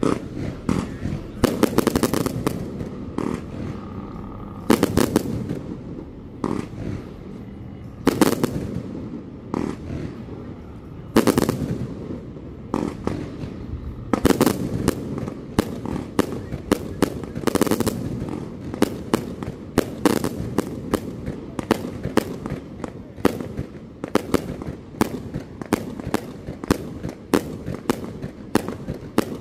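Fireworks display: big shells bursting one at a time every few seconds, then a faster string of many sharp bangs in the second half.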